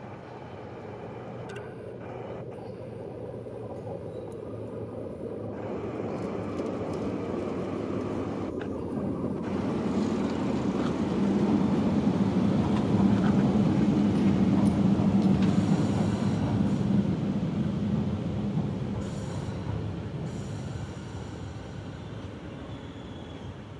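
Nankai electric train running past overhead on an elevated concrete viaduct. Its rumble builds to a peak about halfway through, with a steady low hum at its loudest, then fades away.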